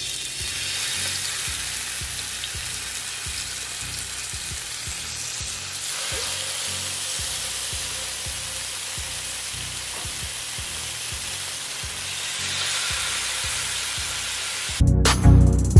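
Skewered portobello mushroom slices in barbecue sauce sizzling steadily on a hot griddle pan. Loud music cuts in near the end.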